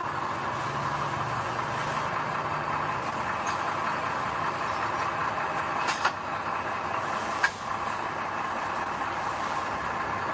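Diesel engine of heavy earthmoving machinery running steadily, with two sharp knocks about a second and a half apart past the middle.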